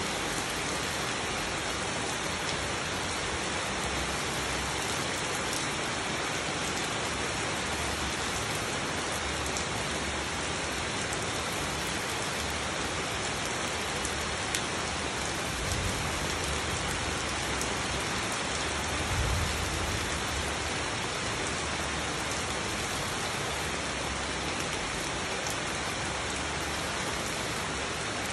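Steady rain falling on foliage and wet ground, a continuous even hiss. Twice a little past halfway, a brief low rumble swells under it.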